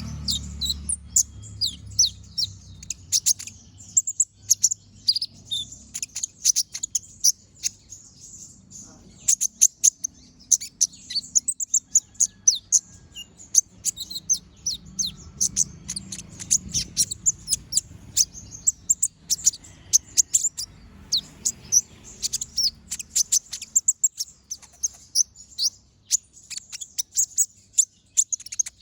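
Kolibri ninja (konin), a small sunbird, singing a long, chatty run of very short, sharp, high-pitched chirps and trills in quick succession, with brief pauses. It is the full, busy song that Indonesian birdkeepers use as a tutor recording for other birds. A faint low hum lies underneath.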